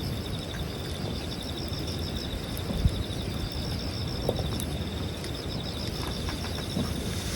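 Insects chirping in a steady, rapid pulsing trill over a campfire, with a sharp pop from the fire near the middle.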